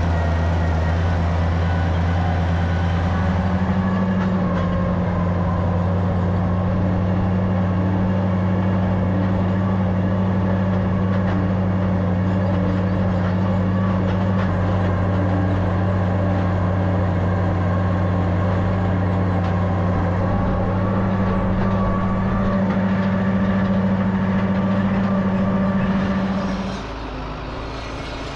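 Tractor engine running steadily under load. Near the end the engine sound drops off sharply and its higher tone stops.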